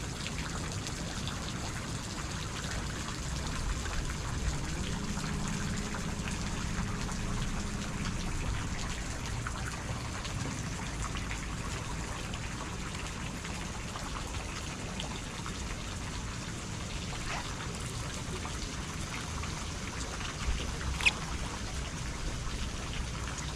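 Water dripping and trickling in a steady patter, with a faint low hum for a few seconds about five seconds in.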